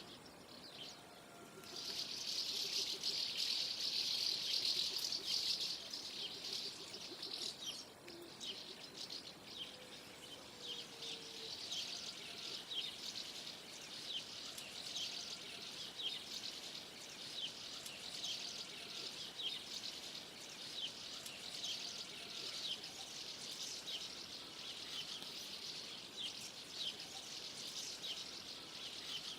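A flock of common house martins calling together: many overlapping high-pitched chirps and twitters. The chorus starts about two seconds in and is loudest for the next few seconds, then carries on as a steady stream of short, quick chirps.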